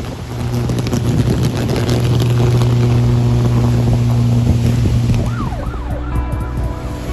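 Power lines arcing: a loud, steady electrical buzz with sharp crackling for the first five seconds or so. About five seconds in, the buzz fades and a wailing tone that rises and falls comes in.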